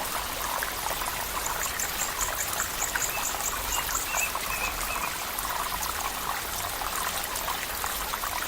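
Stream water flowing and trickling steadily. About two seconds in, a brief high, rapid trill of about a dozen pulses, followed by a few faint short chirps.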